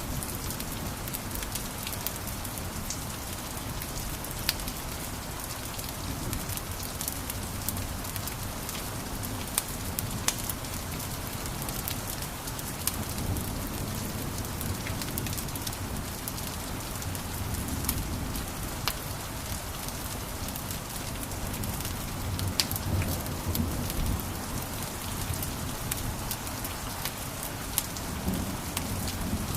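Wood fire in a fireplace crackling, with irregular sharp pops and snaps over a steady low rush of the flames.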